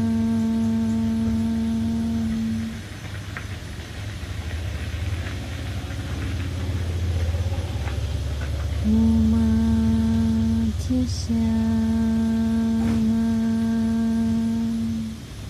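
A woman's voice humming one long, steady note. It breaks off about three seconds in, when a low rumbling drone is heard, then comes back about nine seconds in and holds for some six seconds with a brief hitch in the middle.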